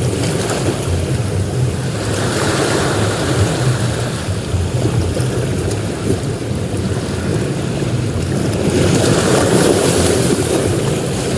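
Ocean surf: waves breaking and washing up a beach in a continuous rush, swelling louder about nine seconds in.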